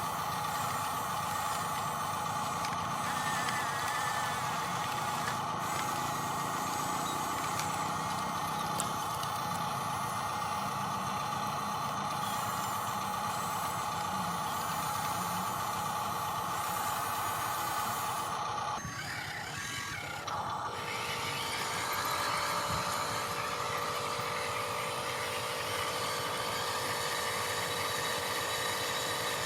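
Steady electric motor and gear whine of radio-controlled model construction machines at work, briefly dropping off and changing about two-thirds of the way through before running on.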